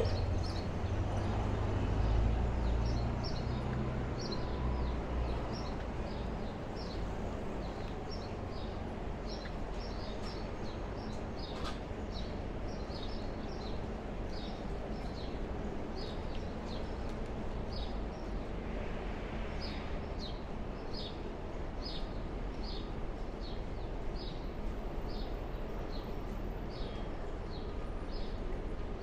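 A small bird chirping over and over, short high chirps about twice a second, above a steady low hum of city street noise that is heavier in the first few seconds.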